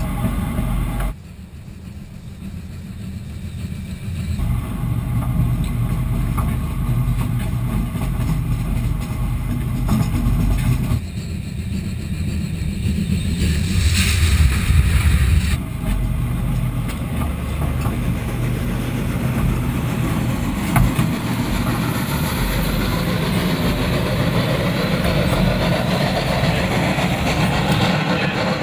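Steady rumble of moving vehicles, a camera car running alongside a train, broken by several abrupt cuts. About halfway through, the train's wheels roll over the rails right overhead, the loudest part.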